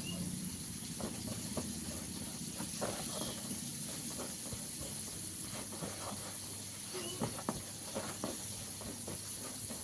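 Hands tossing and shaking chicken pieces in dry flour coating: scattered soft knocks and rustles over a steady hiss.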